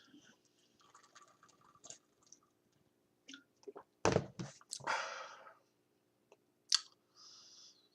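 A person drinking from a cup: faint sips and swallows, with a louder sudden knock about four seconds in followed by a short breathy noise.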